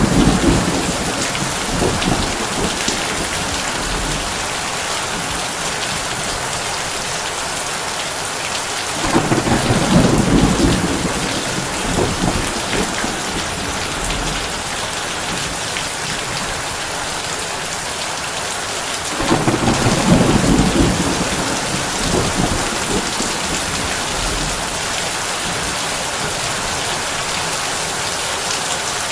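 Heavy rain falling steadily on a tin roof, with low thunder rumbling three times, about ten seconds apart: at the start, about nine seconds in, and about nineteen seconds in, each rumble lasting two to three seconds.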